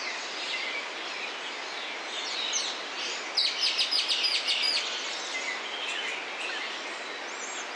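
Wild birds calling over a steady background hiss. A rapid series of high chirped notes comes about three and a half seconds in, and a short high whistle near the end.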